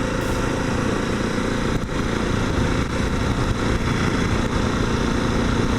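Kawasaki KLX250 dual-sport motorcycle's single-cylinder four-stroke engine running steadily while under way.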